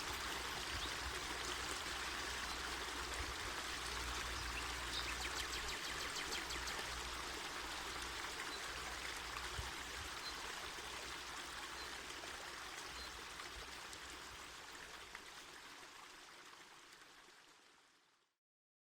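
Mountain forest river flowing: a steady, even rush of water that fades out gradually over the last several seconds.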